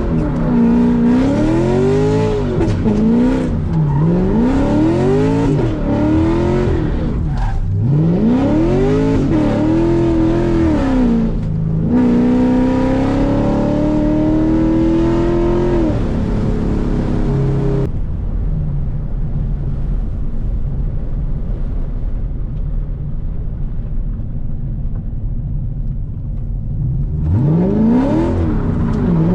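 A cammed C7 Corvette's V8 with Kooks headers, revved hard and hard-driven. Its pitch swings up and down several times in quick succession, then climbs in one long pull. About eighteen seconds in it falls to a lower steady drone, and it revs up again near the end.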